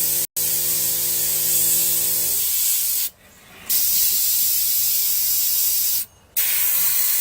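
Dual-action airbrush hissing as it sprays thinned acrylic paint, with the trigger let off twice, about three seconds in and again near the end. A low steady hum under the hiss stops about two seconds in.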